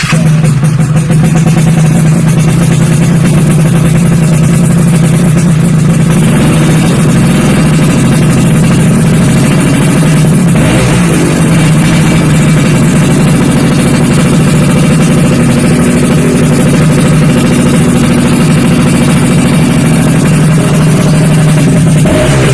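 Yamaha F1ZR two-stroke engine running loud and steady through an aftermarket WRS exhaust.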